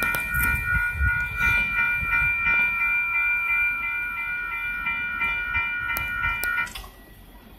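Ballast train rolling away on the rails: low wheel rumble with scattered clicks, under a long, steady high-pitched tone of several pitches that cuts off sharply about seven seconds in, after which it is much quieter.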